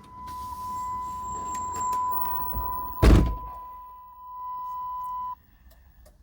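A steady, high single-pitch warning tone from the 1997 Jeep Grand Cherokee's dashboard, which cuts off suddenly about five seconds in. A heavy thunk about halfway through.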